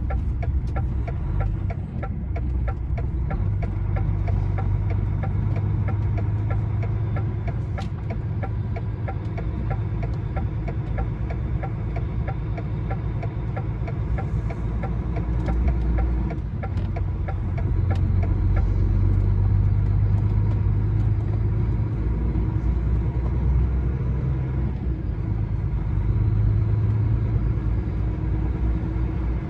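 Inside a lorry's cab while driving: the diesel engine drones low and steady along with road noise, swelling a little a few times. Faint regular ticking sits over it in the first few seconds.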